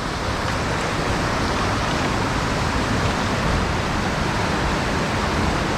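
Steady rush of flowing water from a mountain stream, an even hiss-like noise with no change in level.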